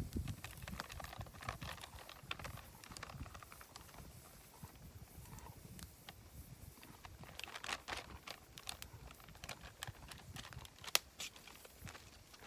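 Wood campfire crackling, with irregular sharp cracks and pops and a single louder crack near the end.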